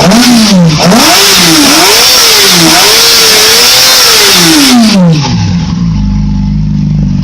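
2008 Yamaha YZF-R6 inline-four engine revved hard in gear, its pitch rising and falling about four times before dropping back to a steady idle near the end.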